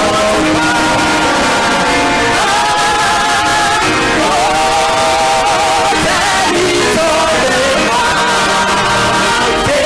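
Gospel choir singing long held notes with vibrato over loud instrumental accompaniment.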